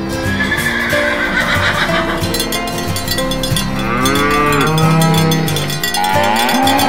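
A recorded cow moo sound effect about four seconds in, over background music with steady held notes; another pitched animal call begins near the end.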